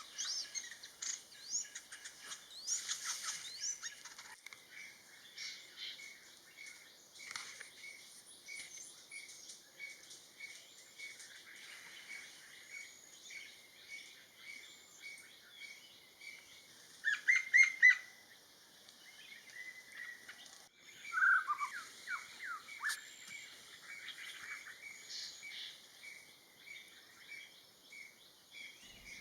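Birds chirping and calling, many short high notes, with a louder cluster of calls about seventeen seconds in and a run of falling notes a few seconds later.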